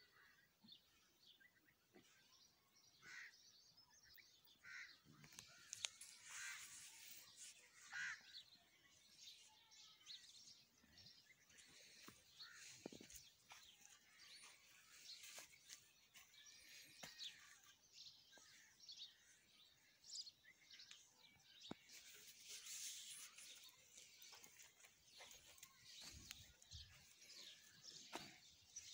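Faint outdoor ambience with small birds chirping on and off, and a few light clicks.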